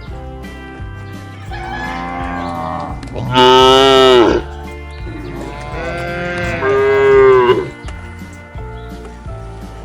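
Cattle mooing: a few long, drawn-out moos, a fainter one first, the loudest about three seconds in, and another long one a couple of seconds later.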